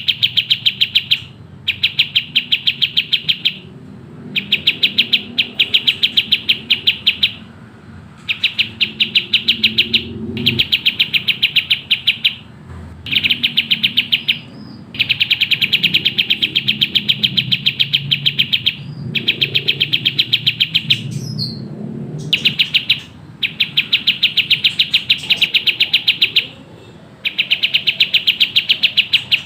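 Kapas tembak singing its fast, tightly packed song: bursts of rapid high chirps, each lasting two to three seconds, repeated over and over with short pauses between them.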